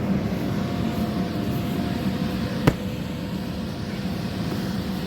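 Electric blower fan of an inflatable bouncy castle running steadily, a hum with a couple of fixed tones over a low rumble. A single sharp click about two and a half seconds in.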